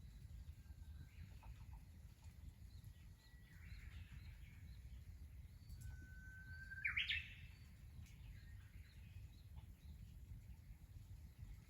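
A bird singing twice outdoors: each phrase is a held whistle that breaks into a quick flourish, and the second, about seven seconds in, rises higher and is louder. A faint low rumble runs underneath.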